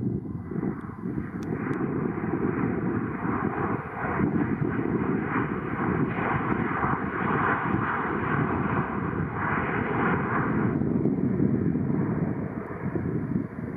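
Fixed-wing aircraft engines running as the plane passes, a steady rushing noise that drops away about eleven seconds in. Wind rumbles on the microphone underneath.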